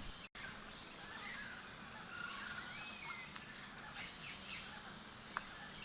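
Faint nature ambience: a steady hiss with a few distant bird calls, one a short sliding whistle about three seconds in.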